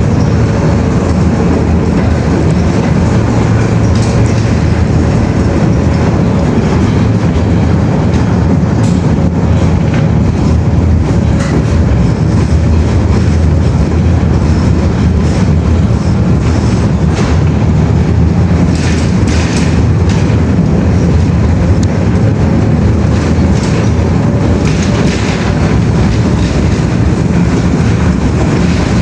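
Steady, loud low rumble of a moving vehicle, with scattered clicks and a faint steady hum.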